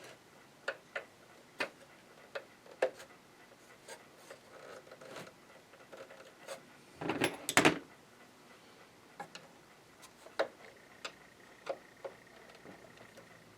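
Scattered small clicks and taps at uneven intervals from hand tools and small screws on a Janome sewing machine's plastic casing as it is taken apart, with a louder clatter about seven seconds in. A faint steady high tone comes in near the end.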